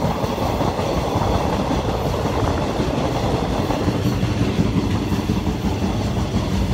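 Diesel-hauled passenger train carriage running steadily along the track, heard at an open carriage door: a constant noise of wheels on rails.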